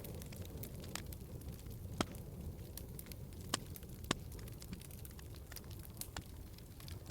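Wood fire burning in a fireplace: a steady low rumble of flames with scattered sharp crackles and pops, the loudest pops about two, three and a half and four seconds in.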